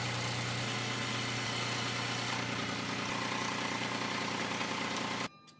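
A power tool's motor running steadily with a strong hum, cutting off suddenly near the end.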